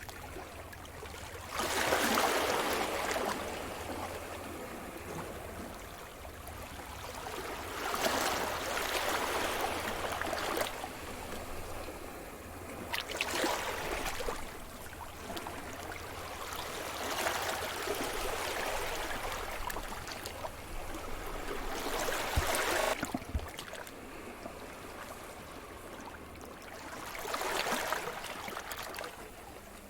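Sea surf: waves breaking and washing up the shore about every five or six seconds, each surge swelling and then fading into a hiss.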